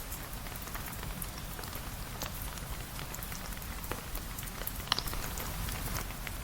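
Steady rain falling, an even hiss over a low steady rumble, with scattered short sharp ticks and clicks throughout, one brighter click about five seconds in.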